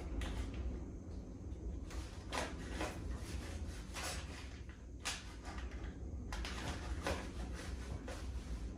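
Scattered knocks and clatter of cooking gear being handled, with a few sharp strikes several seconds apart, over a steady low rumble.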